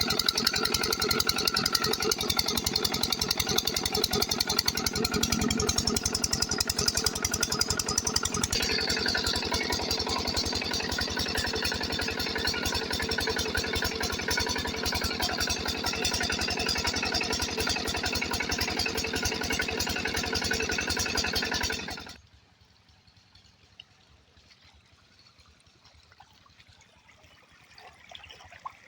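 Diesel water-pump engine running steadily with a rapid, even beat. Its note changes about a third of the way through, then the sound stops abruptly, leaving only faint background sound.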